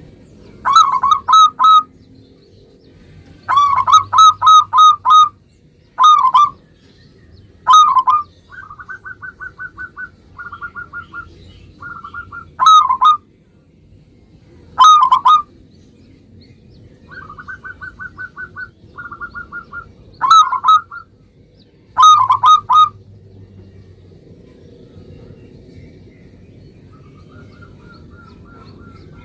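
Zebra dove (perkutut) cooing: loud phrases of quick, rolling coo notes every few seconds, with softer, faster runs of higher notes between them and a quieter spell near the end.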